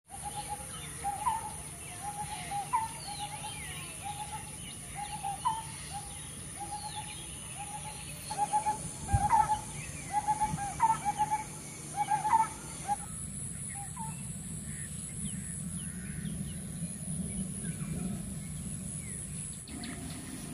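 Birds calling: one bird repeats a short hooting call that ends in an upward flick, about once a second, over scattered higher chirps from other birds and a low steady hum. About two-thirds of the way through the repeated call stops, leaving only faint chirps and the hum.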